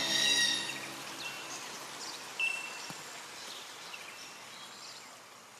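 Birds chirping in short, scattered calls over a faint outdoor hiss, all fading gradually; the last notes of soft background music die away at the start.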